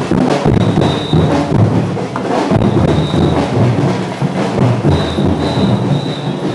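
A marching drum band playing loud, steady drumming with bass drum, with a thin high tone coming and going above it.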